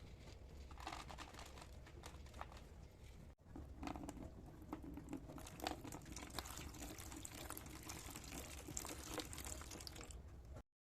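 Close rustling, crinkling and small clicks of household cleaning work by hand, with a break a little over three seconds in, then cutting off sharply near the end.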